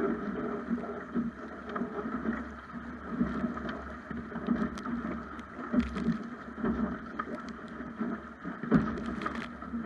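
Water washing and slapping against the hull of a Snipe sailing dinghy under way, with many irregular small splashes and a steady low rumble of wind on the microphone.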